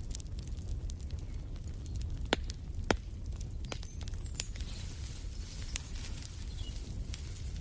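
Wood fire crackling in a fireplace: a steady low rumble with frequent sharp pops and snaps, the two loudest a little past two and about three seconds in. A faint bird chirp near the middle.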